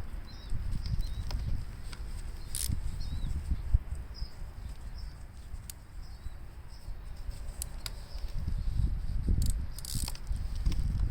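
Low rumbling handling noise and scuffing with a few sharp clicks as bolts are refitted by hand into a Gravely tractor's transmission, with faint small-bird chirps in the background.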